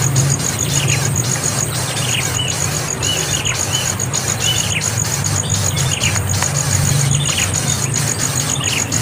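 A young bird calling repeatedly: short, high, squealing calls that slide down in pitch, about one a second, typical of a chick begging for food. A steady low hum and a fast high ticking run underneath.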